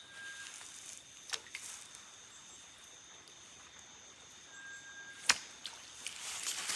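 Night insect chorus in rainforest, a steady high-pitched trilling, broken by a few sharp clicks or snaps, the loudest about five seconds in.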